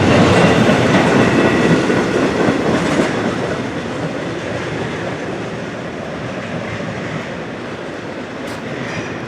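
Intermodal container train's cars rolling past, the wheels clattering on the rails. The noise fades steadily as the train draws away.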